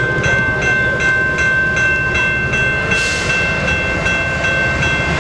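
Bilevel passenger train running past with a steady rumble and wheel clatter, while a level-crossing bell rings steadily at about two to three strokes a second. A short hiss comes about three seconds in.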